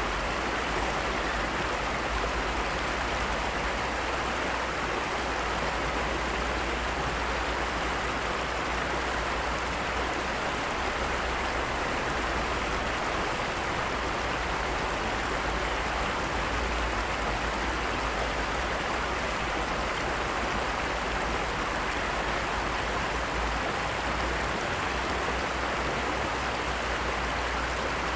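Heavy rain falling steadily, an even unbroken hiss of water with no change through the stretch.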